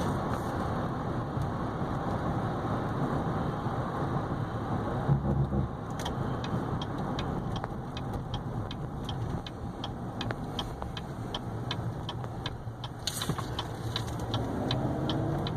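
Cabin sound of a 2015 GMC Yukon Denali XL driving, with steady engine and road noise. From about six seconds in a turn-signal indicator ticks evenly, about twice a second. Near the end the engine note rises as the truck pulls away.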